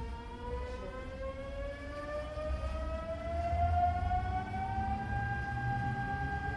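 Hanshin 9000 series train's Mitsubishi GTO VVVF inverter whining as the train accelerates, a rising tone that levels off near the end, over the low rumble of the running train.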